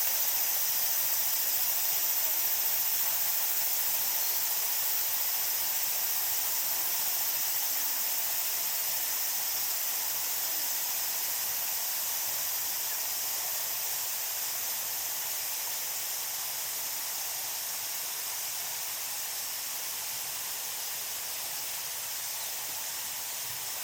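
Water from a small garden waterfall splashing as a steady high hiss, slowly fading out toward the end.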